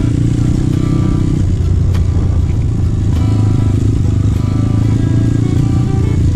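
Trail motorcycle engine running steadily while riding, under background music.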